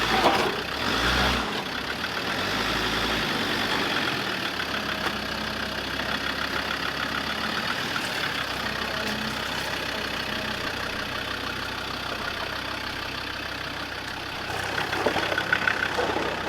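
Off-road 4WD's engine running steadily at low revs while crawling down a rocky track, with a few stronger low rumbles in the first three seconds.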